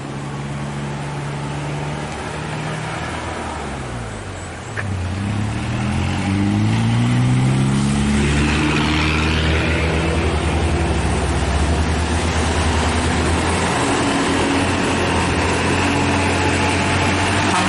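Diesel dump truck engine working hard up a steep climb at full throttle. Its pitch sinks a few seconds in, then it grows louder about five seconds in and the pitch climbs before holding steady and loud.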